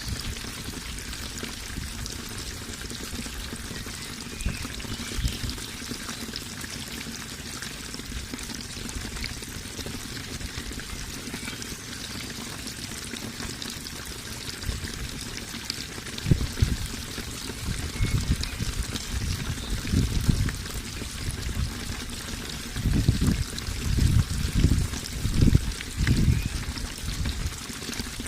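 Running water pouring and trickling steadily, with louder, deeper irregular surges in the second half.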